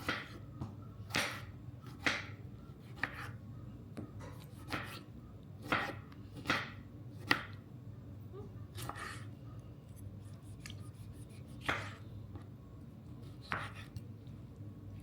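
Knife chopping food on a cutting board: about a dozen separate strokes, roughly one a second at first, then further apart in the second half.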